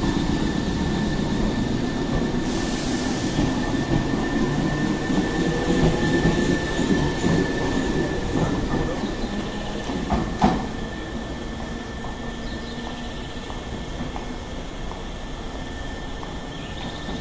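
Nankai limited express train pulling out along the platform: steady rolling wheel and motor noise with a constant high whine underneath, easing off after its last car passes. A sharp knock comes about ten seconds in.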